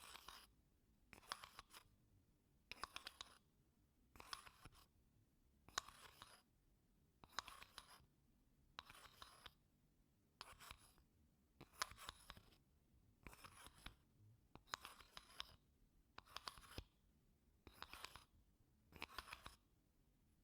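Wooden spoon scraping softly across wooden blocks in slow, even strokes, about one every second and a half. Each stroke is a short scrape made of fine ticks.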